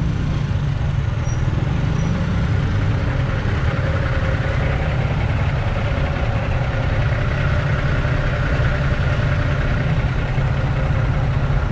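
Italika DT 125 motorcycle's single-cylinder four-stroke engine running steadily with no revving, heard from the rider's seat.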